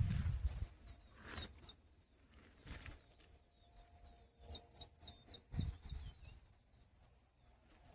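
A bird calling in woodland: a few single high chirps, then a quick run of short, falling chirps a little past the middle. A few soft thumps sound now and then.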